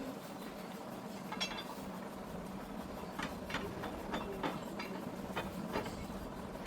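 Scattered light clicks and knocks, about a dozen, over a faint steady hum.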